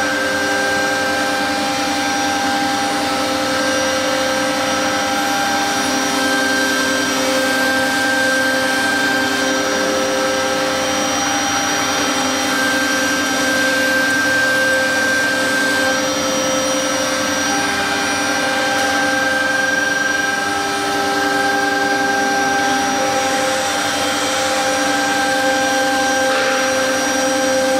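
CNC router cutting fiber board: the 3.5 kW air-cooled spindle runs with a steady whine and cutting noise, while several other steady tones drop out and come back every few seconds as the stepper-driven axes move.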